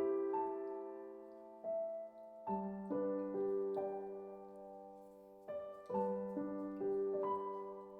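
Soft background piano music: gentle chords struck every couple of seconds and left to ring and fade.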